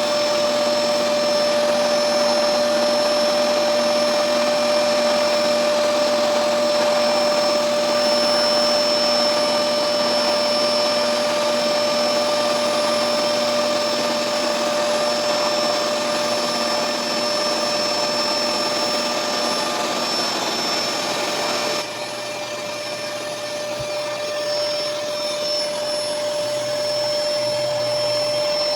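Vacuum cleaner running steadily with a constant whine, sucking up scattered mosquito-coil ash. About 22 seconds in the sound drops a little and turns duller.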